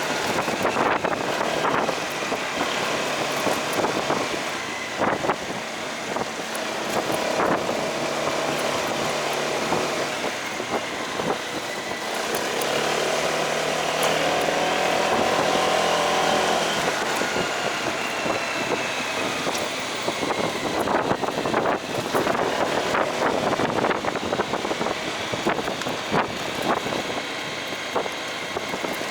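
Motorcycle engine running while riding in traffic, with road noise and other vehicles around.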